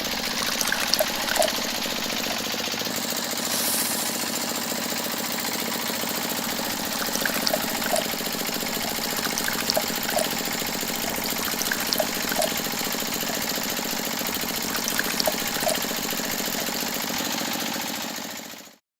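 Small electric motor of a miniature model machine running steadily, with light paired clicks every second or two; it cuts off suddenly near the end.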